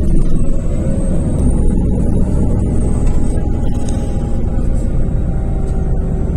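Irisbus Crossway 12M coach's Iveco Cursor 8 (F2B) Euro 4 straight-six diesel running under way, a steady low drone heard from inside the bus, with a faint high whistle that rises and falls. Music with guitar plays along with it.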